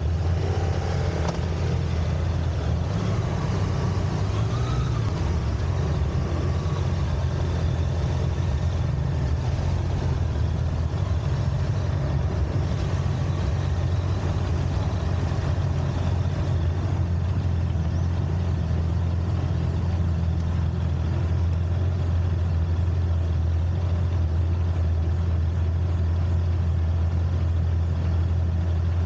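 A vehicle driving, its engine and tyres giving a steady low rumble.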